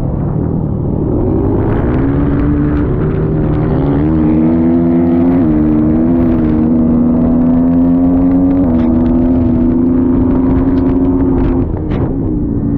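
Dirt bike engine under load, its pitch climbing and stepping several times as it revs through gear changes, then easing off near the end.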